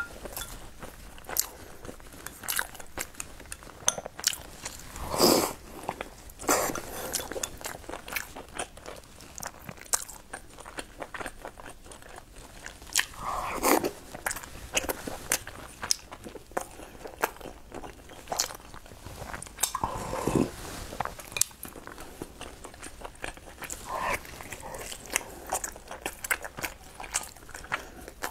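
A person chewing sticky rice dumplings (zongzi) close to the microphone, with many short mouth clicks and smacks. A few longer, louder mouth sounds come about five, thirteen and twenty seconds in.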